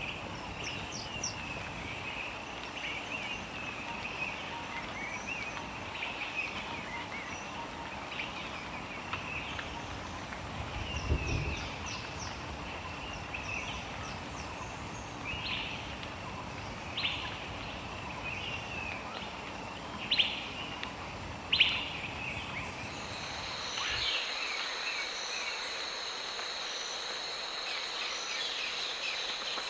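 Small birds chirping and calling over outdoor ambience, with a low thump about eleven seconds in and two sharp, louder calls around twenty seconds in. About two-thirds of the way through, the sound changes to a steady, high-pitched insect drone with a few chirps still over it.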